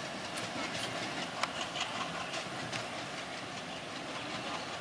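Passenger train's coaches rolling away on broad-gauge track: a steady rumble of wheels on rails with scattered sharp clicks at the rail joints, slowly fading as the train recedes.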